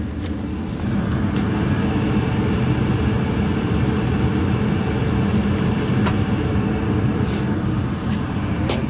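Goodman gas furnace running: a steady low rumble from the inducer motor and burners, stepping up slightly in level about a second in, with a few faint clicks.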